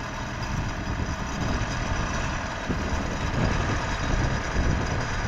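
TimberKing 2520 portable sawmill's engine idling steadily, running the hydraulics used to set up and level the mill.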